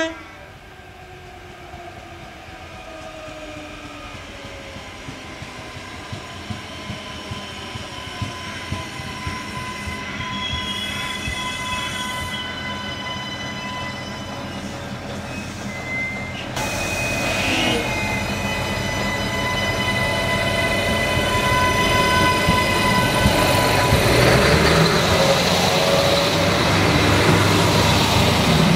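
Adelaide Metro 3000-class diesel railcar approaching and drawing into the station, growing steadily louder. Its wheels squeal with steady high tones, with a run of wheel clicks over the rail joints in the middle, and a heavier rumble from the last third on.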